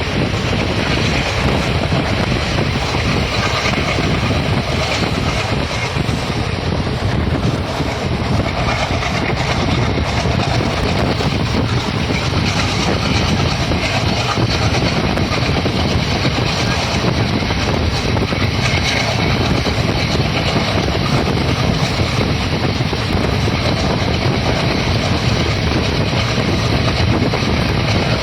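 Passenger express train running along the track, heard from on board: a steady rumble with wheels clattering over the rails.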